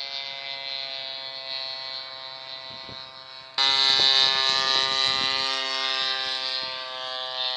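Small two-stroke grass-cutter engine of a homemade RC airplane buzzing steadily in flight at a nearly constant pitch, growing suddenly louder about three and a half seconds in.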